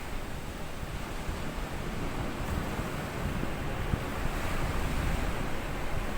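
Small sea waves washing up on a sand beach, the wash swelling slowly louder.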